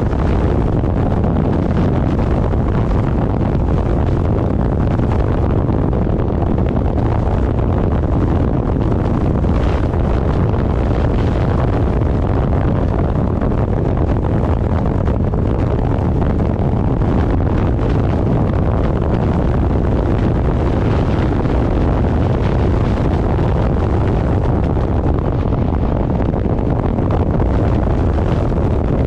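Steady wind noise buffeting the microphone of a moving vehicle, strongest in the low end, with the vehicle's running noise blended underneath.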